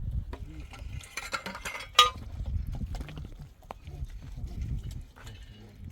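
Cement mortar being mixed by hand: a tool scraping through the mix, then one sharp metallic clank about two seconds in, with scattered small knocks.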